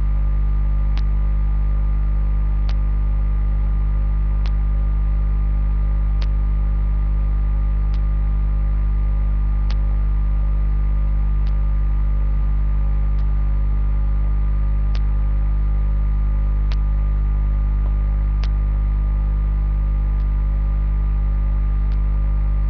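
Steady, loud electrical mains hum, with faint sharp clicks at an even pace of about one every second and three-quarters.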